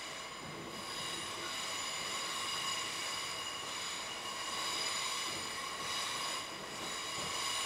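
Electric commuter train running, heard from inside the carriage: a steady rumble with a high, steady electric whine over it.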